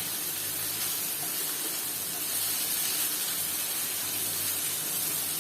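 Tomato-onion masala with kasuri methi sizzling as it sautés in butter in a kadai, a steady frying hiss while the tomatoes cook down.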